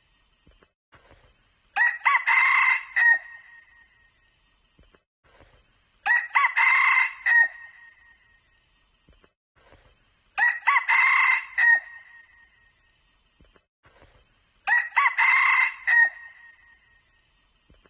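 Red junglefowl crowing, four crows about four seconds apart, each a loud call of a second and a half or two.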